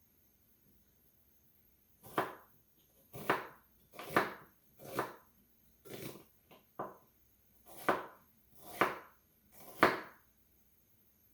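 Kitchen knife slicing through an onion on a cutting board: about nine slow, separate cuts, roughly one a second, each swelling to a sharp knock as the blade goes through onto the board.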